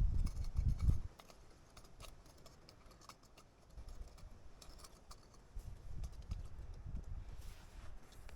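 Wind buffeting the microphone in low gusts during the first second and again through the second half, with scattered light clicks and taps in between.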